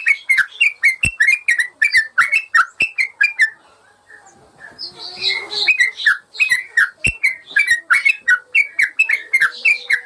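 Yellow-vented bulbul (trucukan) song: a fast run of sharp, repeated chirping notes, about four a second, that breaks off for about two seconds near the middle and then starts again. A couple of soft knocks sound under it.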